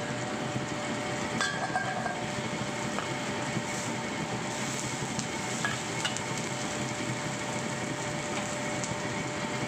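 Sliced shallots, garlic and onion sizzling steadily in hot oil in a wok, with a metal spatula clicking and scraping against the pan a few times as they are stirred.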